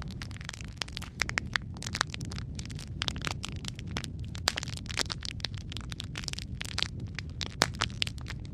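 Wood fire burning in a fireplace: a steady low rumble of flame under dense, irregular crackles and snaps, with a few sharper pops, one about three quarters of the way through.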